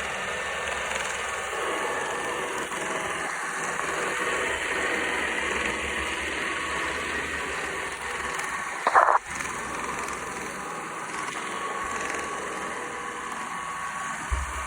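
Ecovacs Deebot robot vacuum running, a steady motor and brush whir with a faint whine. About nine seconds in, a brief, louder sound cuts through.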